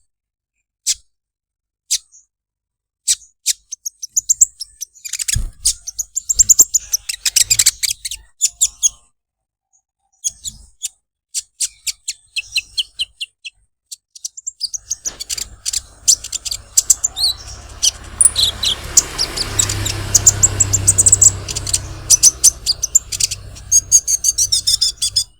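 A sunbird, the 'kolibri ninja', calling in rapid bursts of short, high chirps and dry ticking 'krecek krecek' notes. From about halfway through, a low steady rumble runs underneath.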